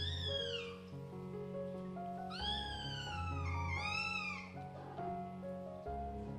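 Kitten meowing three times: a short falling meow at the start, then two longer meows back to back about two and a half seconds in. Background music plays under them.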